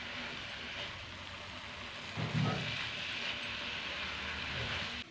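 Grated carrots with sugar and ghee sizzling steadily in a karahi as they are roasted and stirred with a silicone spatula, with a low thump about two seconds in.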